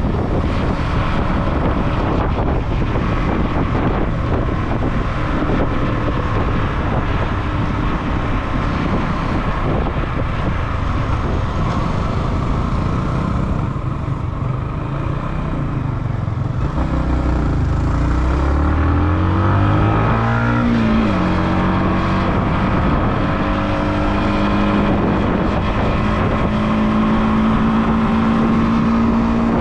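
Motorcycle engine under way with wind rushing over the microphone. About two-thirds of the way in the engine revs up, shifts gear with a brief drop in pitch, then pulls steadily and slowly climbs again.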